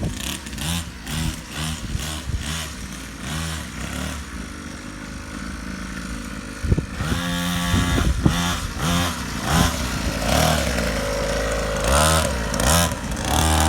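A Syx Moto Holeshot 50cc dirt bike engine being ridden, revving up and dropping back in quick repeated throttle blips, with a couple of longer steadier pulls later on.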